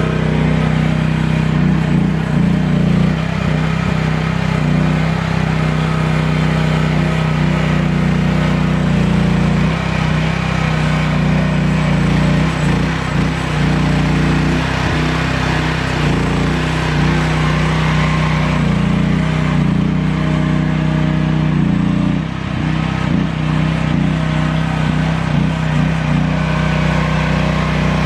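QH12 mini-excavator's engine running steadily, with brief small dips in level about ten seconds in and again near the end.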